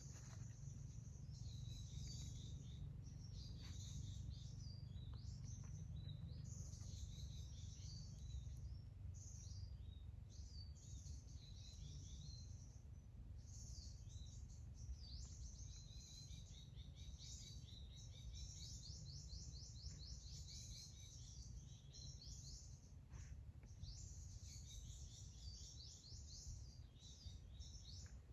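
Birds chirping and singing, with a rapid trill a little past the middle, over a steady low rumble.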